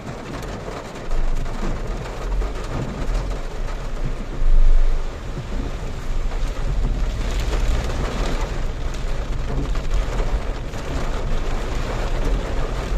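Heavy rain pouring on a moving Renault Triber, over a steady low rumble of the car on the wet road. There is a brief louder surge about four and a half seconds in.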